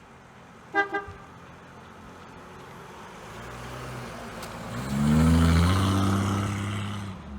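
Two short car-horn beeps, then a motor vehicle's engine building up and rising in pitch to run loudly before stopping suddenly.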